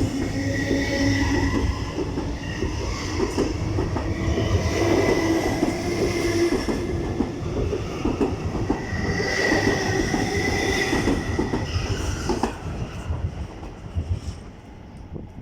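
MTR metro train pulling out and running away from the station: rumbling wheels on the rails with a high steady whine, fading out after about twelve seconds.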